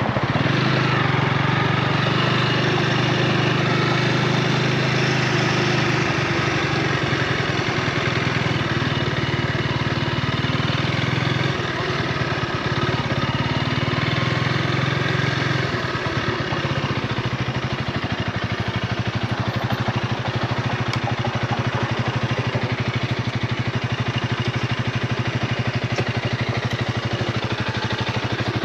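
A 2024 Honda Rebel 300's single-cylinder engine running steadily. Its note shifts a few times in the first sixteen seconds or so, then settles into a steadier, lower note for the rest.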